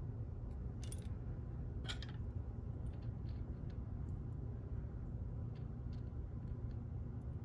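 Small metal lock parts clicking and clinking as they are handled during disassembly of a pin-tumbler lock cylinder, with two sharper clicks about one and two seconds in and lighter ticks after, over a steady low hum.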